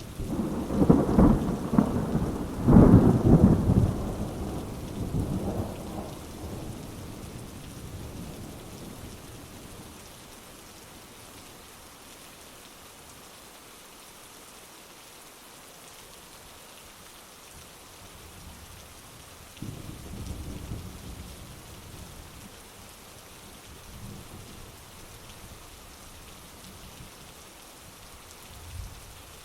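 Heavy rain falling steadily with a loud thunderclap at the start, its rumble rolling on in two surges and dying away over several seconds. A fainter roll of thunder comes about two-thirds of the way through.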